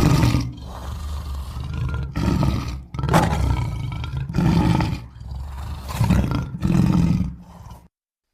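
A series of big cat roars and snarls used as a cartoon werecat's voice: about five loud bursts, cutting off to silence near the end.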